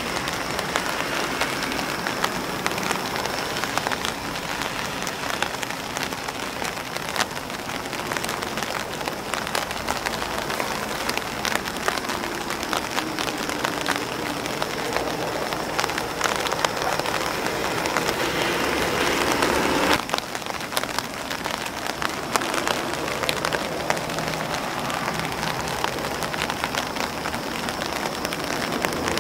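Steady rain pattering on an umbrella and on grass leaves, a dense run of small drop ticks. It swells slightly, then drops back abruptly about twenty seconds in.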